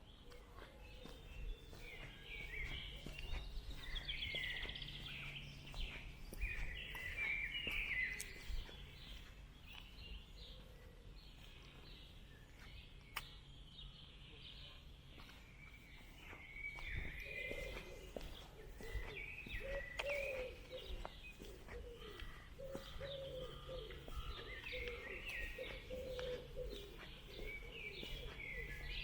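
Several birds singing and chirping, with lower cooing calls repeating through the second half and regular footsteps underneath.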